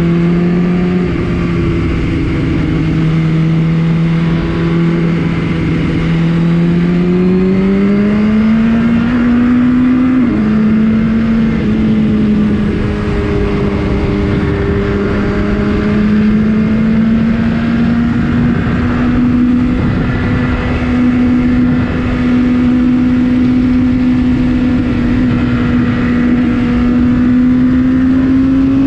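Superbike engine running through an aftermarket Akrapovič HP exhaust at a steady cruise, its pitch climbing slowly, dropping suddenly about ten seconds in, then rising gently again.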